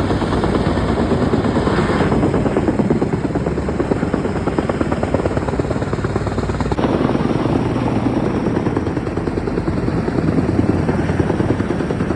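Helicopter flying low overhead, its rotor blades making a steady, rapid chop.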